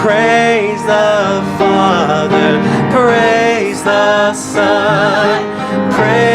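A worship song sung with instrumental accompaniment, the voice holding and bending notes with vibrato.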